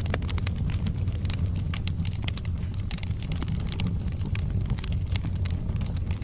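Wood fire burning in a fireplace, with a steady low rumble of flames and frequent irregular crackles and pops from the burning logs.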